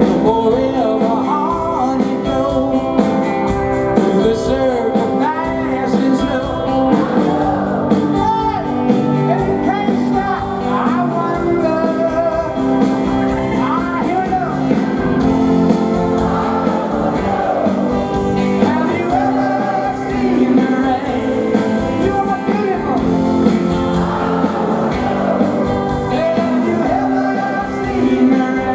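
Rock band playing live, with a male lead vocal singing over the band.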